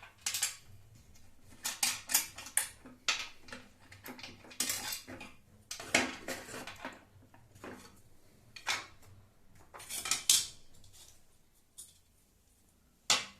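Router table parts being handled and fitted during assembly: irregular clicks, rattles and knocks. They thin out near the end, with one sharp knock just before it ends.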